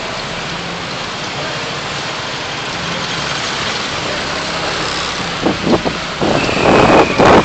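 Steady vehicle and road noise from a car driving in city traffic. Near the end, louder rough bursts of noise come in with a thin high whine.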